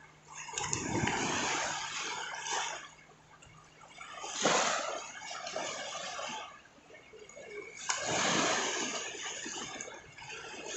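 Shallow seawater splashing and sloshing in several uneven surges, loudest about four and a half seconds in, with a couple of sharp clicks.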